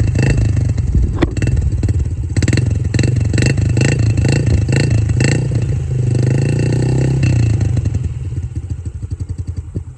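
Small child's dirt bike engine running under throttle, the pitch rising and falling, held steadier for about a second past the middle, then dropping to a lower, choppier note near the end.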